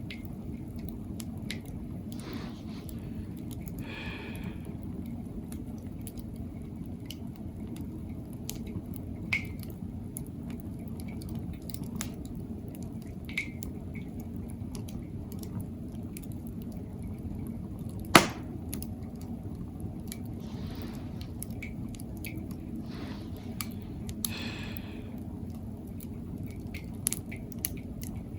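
Wood campfire burning in a Coleman Fire Disc: a steady low rumble of flame with scattered crackles and snaps, one loud pop about two-thirds of the way through, and a couple of brief hisses.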